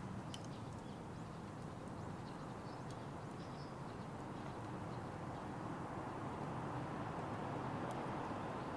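Small wood fire in a fire pit burning with a few sharp pops over a steady background hiss, with faint bird chirps in the first few seconds.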